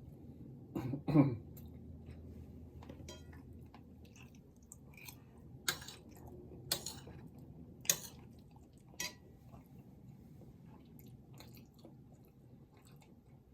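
Close-up chewing and mouth sounds of someone eating salmon roe fried rice, with a loud short sound about a second in and four sharp clicks about a second apart in the middle of the stretch.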